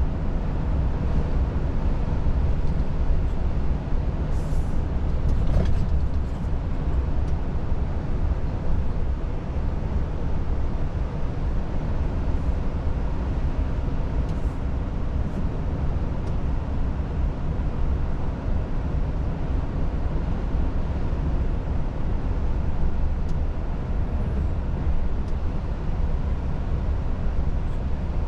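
Volvo FH truck's 13-litre six-cylinder diesel engine running at a steady speed while driving, with a deep rumble and tyre and road noise, heard from inside the cab.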